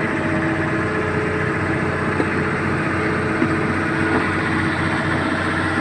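A heavy diesel engine running steadily, with a couple of small knocks partway through.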